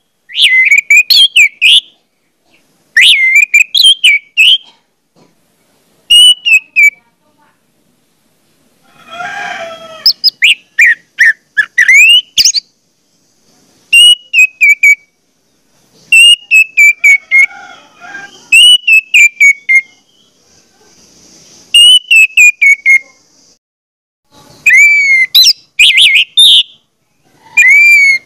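Loud, shrill whistled phrases of quick sliding notes, repeated in bursts of a second or two with short pauses between.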